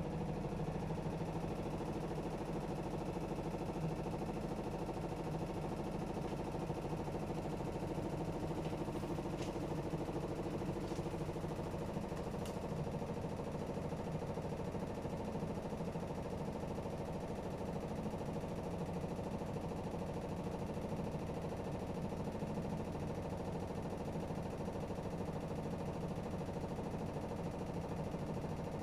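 AEG Öko-Lavamat 76910 washing machine running at a steady speed, its inverter-driven three-phase motor and drum giving an even hum with a constant pitch, with a few faint clicks about ten seconds in.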